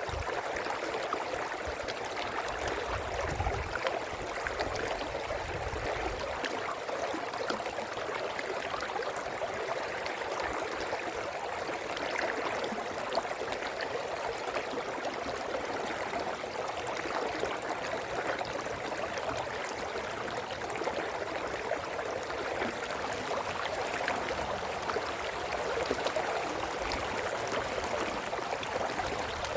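A brook running steadily over stones, a continuous babbling and gurgling of flowing water.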